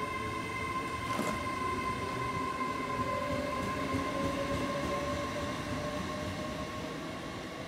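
Great Western Railway Hitachi IET (Class 800/802) on the move at low speed, with a steady high electric whine and a lower whine slowly rising in pitch as it gathers speed. A single clunk comes about a second in.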